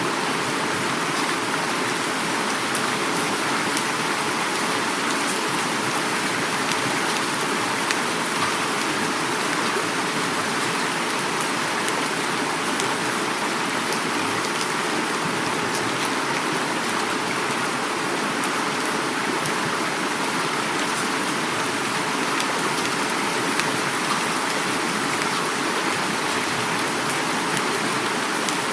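Heavy rain falling steadily together with a flowing river, an even unbroken rush of water with fine drop ticks on top.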